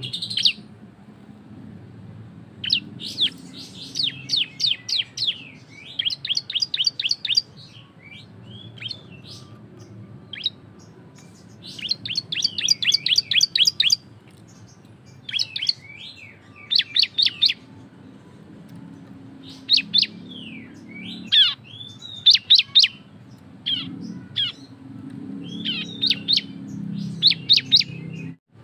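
Cisem, a prinia (ciblek), singing loudly in the rapid 'ngebren' style: bursts of fast, high chattering notes, each burst a second or two long with short pauses between, over a faint low hum.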